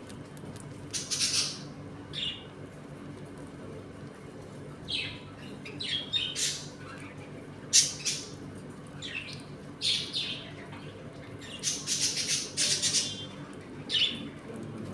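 A flock of budgerigars chirping and squawking in short, scattered calls, several birds at once, over a steady low hum.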